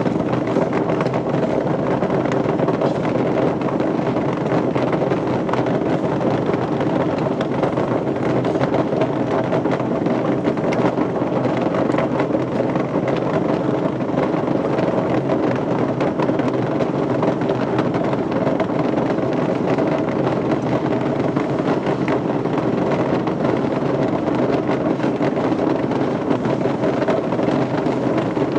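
A steady machine drone: a constant noisy rumble with a faint held hum, unchanging throughout.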